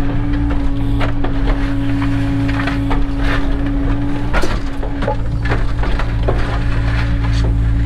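Cat 307 excavator's diesel engine running steadily under hydraulic load, with a continuous hum whose pitch dips briefly about halfway through, over a steady stream of irregular crunching and knocking as the machine works material.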